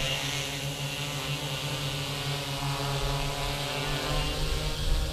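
Electric motors and propellers of a large multirotor drone humming steadily in flight, a layered whine with small shifts in pitch.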